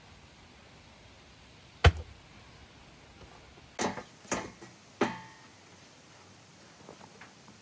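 Four sharp knocks spread over a few seconds, the first the loudest; the last leaves a brief ringing tone, and faint taps follow near the end.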